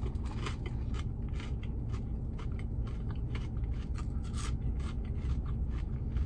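Crispy waffle fries being bitten and chewed close to the microphone: a steady run of short, sharp crunches, over a constant low hum.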